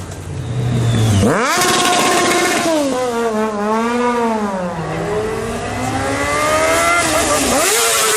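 Sport motorcycle engine accelerating hard, its note rising steeply about a second in, wavering and dipping, then climbing again, with a quick rise and fall near the end.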